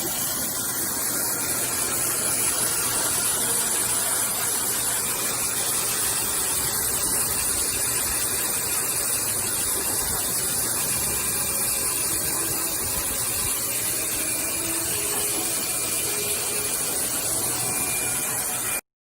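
A steady, even rushing hiss with no pitch or rhythm, cutting off abruptly near the end.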